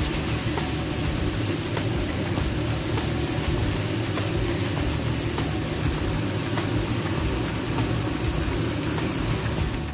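Chicken and vegetables sizzling in a stainless steel pot: a steady hiss with scattered small crackles over a low steady rumble.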